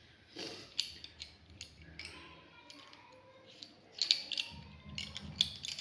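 Drawing tools handled on paper: a run of sharp clicks and ticks, with light scratching between them.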